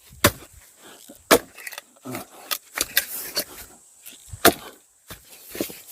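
Sharp wooden knocks and clacks of firewood logs striking one another, about seven at irregular intervals.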